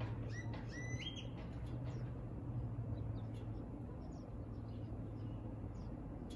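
Birds chirping: a quick run of high chirps stepping up in pitch in the first second or so, then scattered fainter chirps, over a steady low hum.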